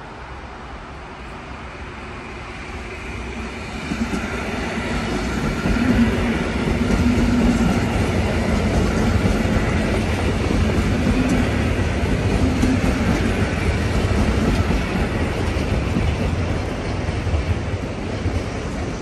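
SKM EN57 electric multiple unit passing close by. Its running noise swells about four seconds in, stays loud with a humming tone for about twelve seconds, and eases off near the end.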